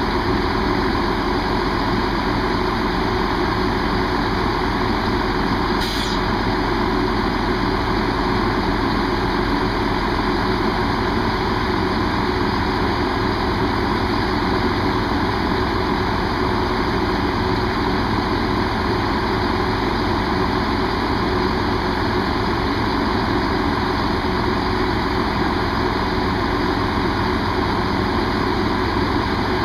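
Diesel train engine idling steadily, with a brief click about six seconds in.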